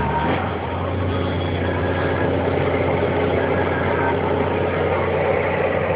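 Scania truck's diesel engine running steadily while driving. Its low drone shifts slightly higher about half a second in, after a brief dip in level.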